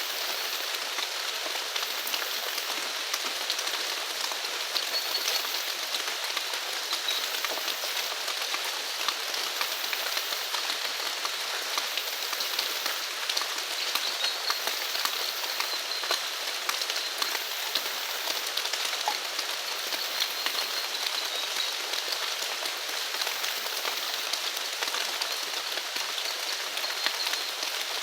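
Steady rain with a dense patter of drops. Faint high calls from animals recur every couple of seconds behind it.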